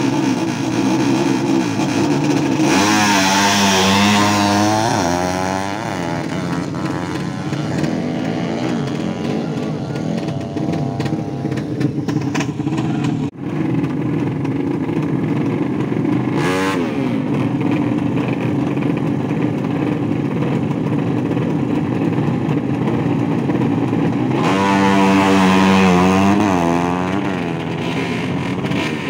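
Race-tuned motorcycle engines running loudly, revved hard twice: once a few seconds in and again near the end.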